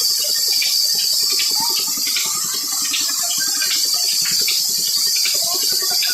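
Old Petter diesel engine running steadily, with a regular beat about two to three times a second over a continuous high hiss.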